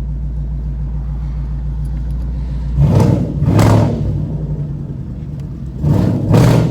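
Ford Mustang 5.0 V8 with a loud exhaust idling steadily, then revved in quick blips, two about three seconds in and two more near the end.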